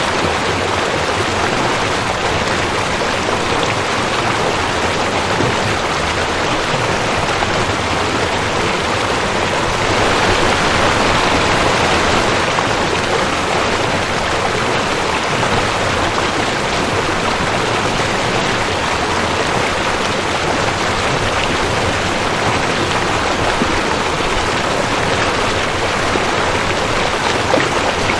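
Rushing creek: fast water flowing over rocks, a steady full rush that swells slightly about ten seconds in.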